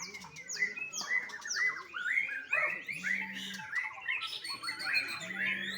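Young white-rumped shama singing a fast, varied song of whistled notes, opening with a run of quick downward-sweeping notes.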